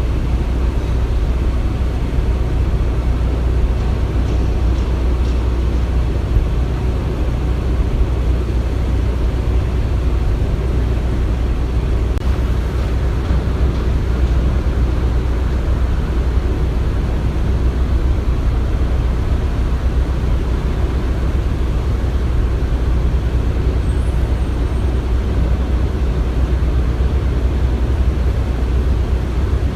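Construction-site ambience: a steady, low engine rumble of heavy machinery that stays level throughout.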